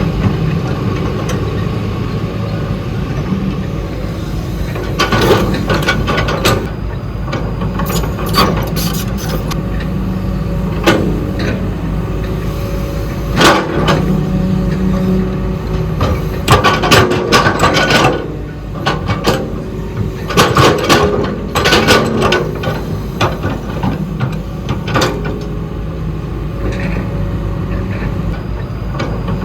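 Excavator working: its diesel engine runs steadily under a series of sharp metallic clanks and knocks as it digs.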